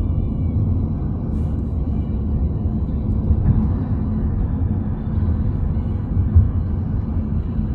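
Steady low rumble of tyre and engine noise inside a car's cabin at highway speed.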